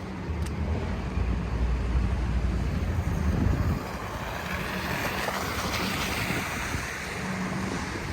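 Wind rumbling on the microphone, then a vehicle passing on the snowy street: its tyre hiss swells about halfway through and fades away.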